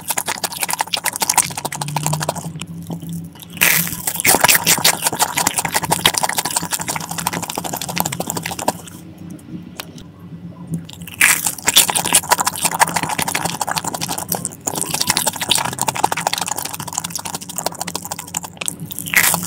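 Close-miked crunching and chewing of a sugar-coated Korean corn dog's crisp crust: rapid crisp crackles with short pauses near 3 s and from about 9 to 11 s. A faint low hum runs underneath.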